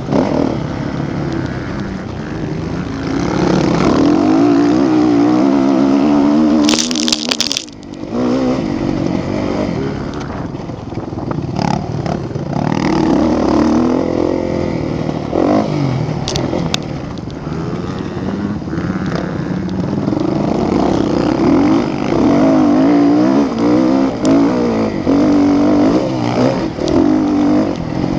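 Motocross bike engines revving hard, their pitch repeatedly climbing and dropping as the bikes accelerate and shift. About seven seconds in comes a brief loud rush of noise.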